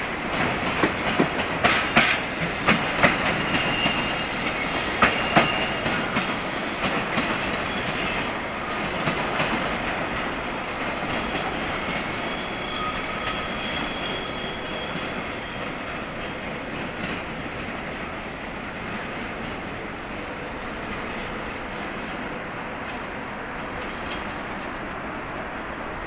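Freight train of tank wagons rolling past, its wheels clacking over the rail joints, with a faint wheel squeal now and then. The clacks are sharpest in the first few seconds and thin out as the train draws away, leaving a steady rumble that slowly fades.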